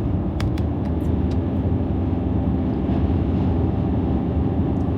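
Steady road and engine rumble of a moving car heard from inside the cabin, with a few light clicks in the first second or so.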